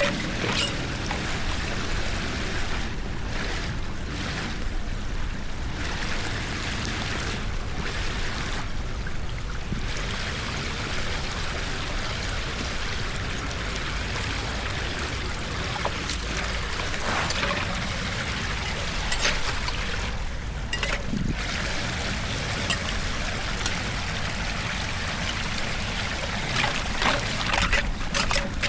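Floodwater pouring and trickling steadily into a cleared storm drain, with a few brief sharp splashes.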